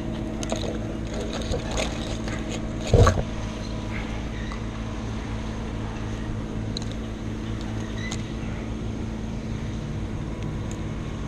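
An engine running steadily at a constant speed, with a single loud knock about three seconds in.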